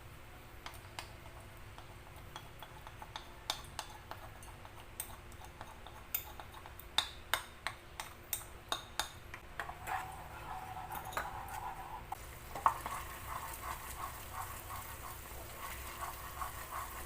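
Cutlery clinking and scraping against dishes: a run of sharp clicks for several seconds, a brief scrape, one louder clink, then softer taps over a faint hiss.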